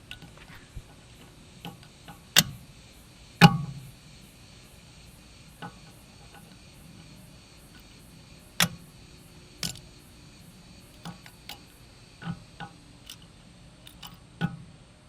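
Hand tools working on a car wheel's lug nuts: about a dozen irregular sharp metallic clicks and knocks. The loudest two come about two and a half and three and a half seconds in.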